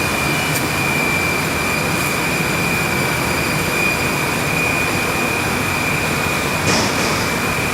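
Steam-boiler plant machinery running: a steady, loud rush with a constant high whine, and a short hiss about six and a half seconds in.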